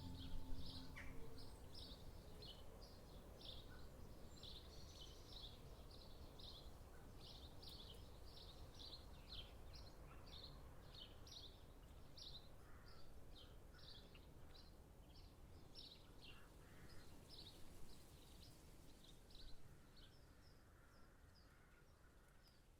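Faint bird chirping in a forest: short high chirps repeated two or three times a second over a low hiss, thinning out near the end. The last of a singing bowl's ring dies away in the first second or so.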